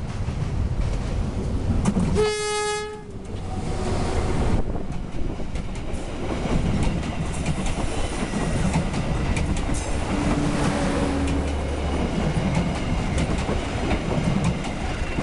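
Diesel-hauled passenger train passing close by: one short horn blast about two seconds in, then the locomotive's engine and the coaches' wheels clattering rhythmically over the rails as the train goes past.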